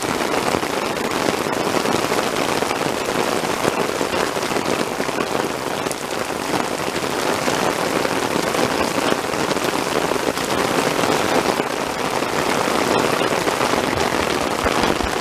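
Heavy monsoon rain falling steadily on rocky desert ground and scrub: a dense, even hiss of countless small drop hits that holds at the same level throughout.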